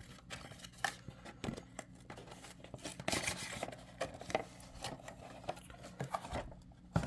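Cardboard box being opened and handled: scattered light taps, scrapes and rustles of the flaps and packaging, busiest about three seconds in.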